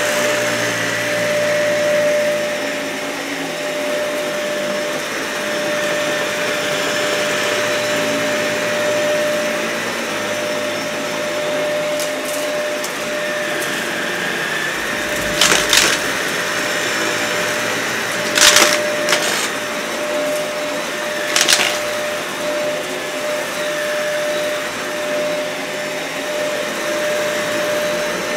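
Dyson vacuum cleaner running steadily over a matted, dirty carpet, its motor giving a constant whine over a rushing hiss. In the middle it crackles sharply three times, a few seconds apart, as grit is crunched up.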